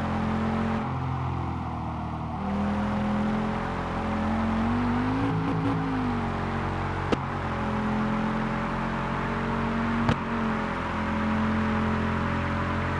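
Cartoon car engine sound effect running steadily as a low hum. Its pitch swells up and back down briefly about five seconds in, and two sharp clicks come later.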